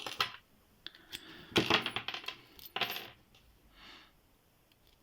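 Metallic clinking and scraping of a rocker pick being worked in a Qualtec padlock's keyway with a tension wrench in place, in three or four short rattling spells about a second apart.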